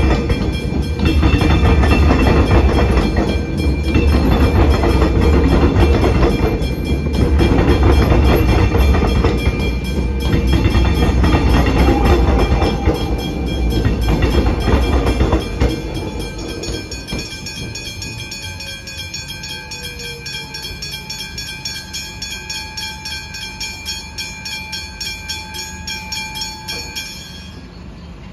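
Suburban electric train passing over a level crossing, rumbling and clattering in surges, then fading away about halfway through. The crossing's warning bells keep ringing in a rapid, regular rhythm and stop abruptly near the end.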